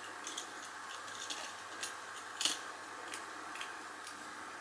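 Faint light clicks and taps of a small die-cast Lesney Matchbox Commer milk float being handled, with one slightly louder tap about two and a half seconds in, over a steady low hiss.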